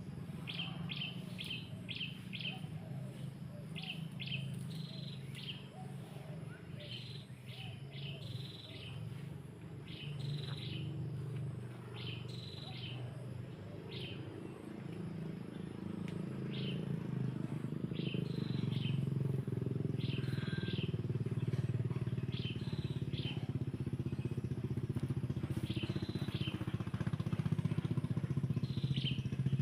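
Birds chirping in short, quick calls repeated every second or so, over the steady drone of a small engine that grows louder about halfway through.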